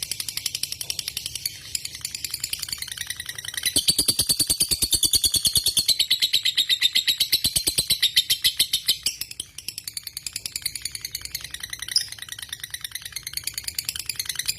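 Lovebird singing a long, unbroken run of rapid high chattering notes, many a second, growing louder about four seconds in and easing off around nine seconds.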